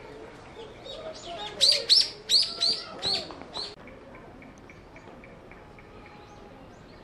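A bird calling loudly: a quick run of about seven sharp, high chirps over two seconds, followed by a faint, evenly repeated chirp about three times a second.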